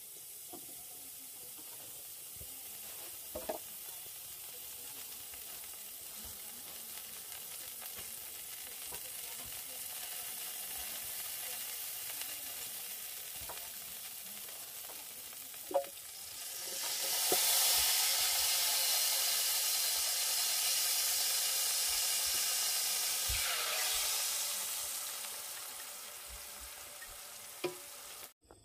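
Food sizzling as it fries in a pan, with a few light knocks. The sizzle swells louder about halfway through and dies back near the end.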